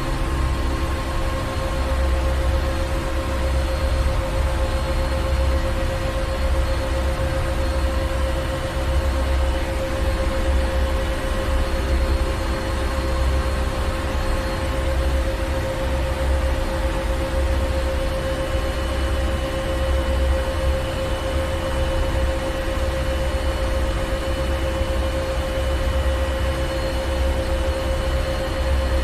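Ship's engine room: heavy machinery running steadily, a deep uneven rumble under a constant mid-pitched hum and a wash of mechanical noise.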